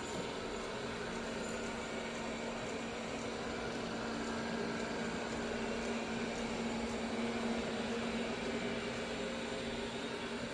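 Robot vacuum cleaner running: a steady whirring hiss with a constant low hum.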